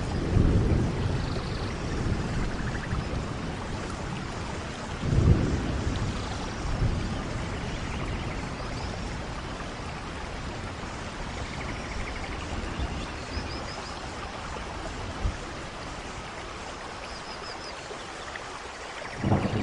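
Steady rain with rolls of thunder: low rumbles swell about half a second in and again about five seconds in, and another begins near the end.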